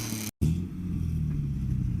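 A car engine revving hard in loud, pulsing bursts cuts off abruptly about a third of a second in. A car engine then runs steadily at low revs with a deep hum.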